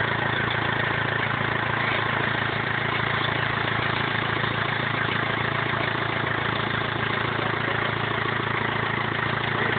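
BMW E46 320d's 2.0-litre four-cylinder turbodiesel idling steadily, freshly rebuilt after a swirl-flap failure.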